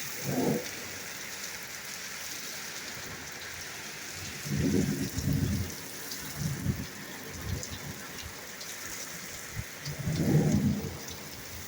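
Heavy thunderstorm rain hissing steadily, with short low rumbles of thunder near the start, around five seconds in and again around ten seconds in.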